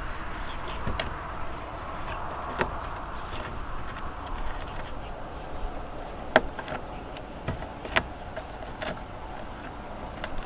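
Insects chirring steadily in high, even tones, one of them pulsing in a regular trill. Several sharp clicks and taps come through it, the loudest about six seconds in.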